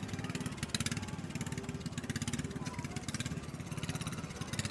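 Vintage tractor engine running steadily with a rapid, even exhaust beat.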